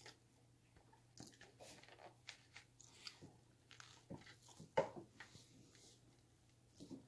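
Faint, irregular crunching and chewing, someone eating snack food close to the microphone, over a steady low hum.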